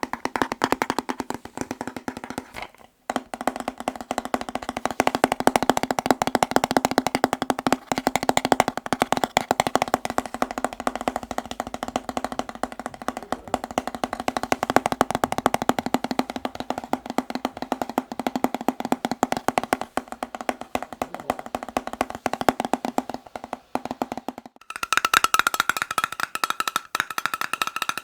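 Fast, dense tapping on a hollow object that rings with a steady low pitch, broken by a brief pause about three seconds in. Near the end the tapping moves to a different object that rings higher.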